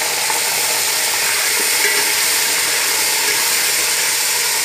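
Diced potatoes and bitter gourd sizzling steadily in hot oil in a metal pot, stirred with a metal spatula.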